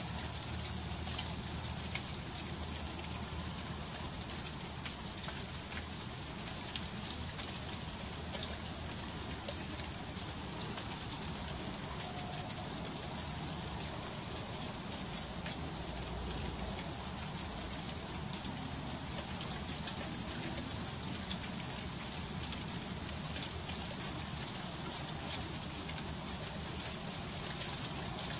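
Freezing rain falling steadily, a continuous hiss full of fine ticks as the drops and ice pellets strike hard, icy surfaces.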